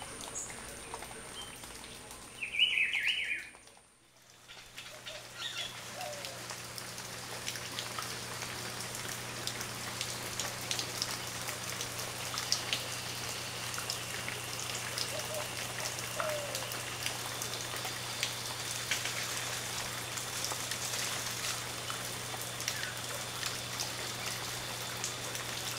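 A bird chirps in the first few seconds. After a brief near-silent dip, there is a steady outdoor background hiss with scattered light crackles, faint high tones and a low hum; no howling.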